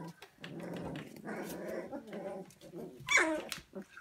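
Two-week-old Siberian husky puppies growling at each other as they scuffle, with a short, louder cry about three seconds in.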